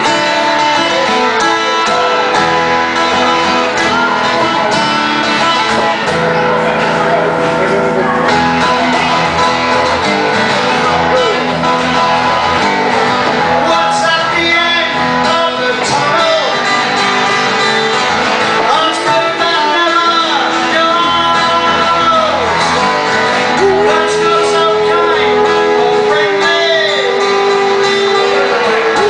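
A band playing a song live: singing over strummed guitar.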